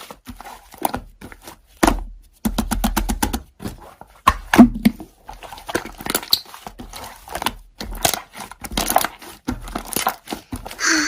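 Slime being squished and stretched by hand: irregular crackling clicks and pops, with a quick run of clicks about three seconds in and one loud pop about four and a half seconds in.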